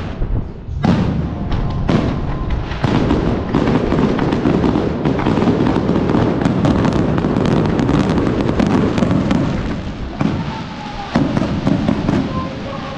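Aerial fireworks barrage: shells launching and bursting in rapid succession, a near-continuous mass of booms and crackles. It starts about a second in, eases briefly around ten seconds in, then picks up again.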